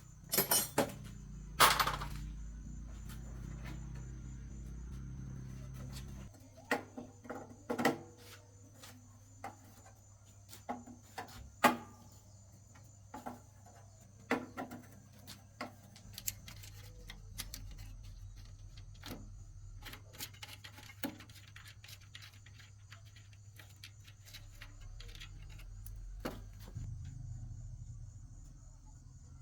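Irregular metallic clinks and knocks of tools and parts being handled during tractor repair work, the loudest near the start and about twelve seconds in. Under them run a low hum and a thin steady high-pitched tone.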